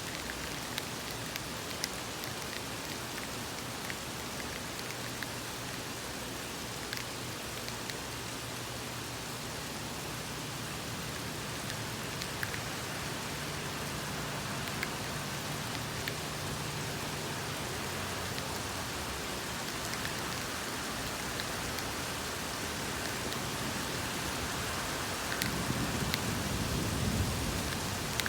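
Steady rain falling, an even hiss with scattered drops pattering close by. A low rumble swells up near the end.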